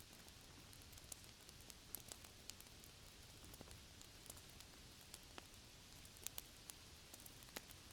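Faint rain-and-fireplace ambience: a steady hiss of rain with scattered sharp crackles and pops from a wood fire.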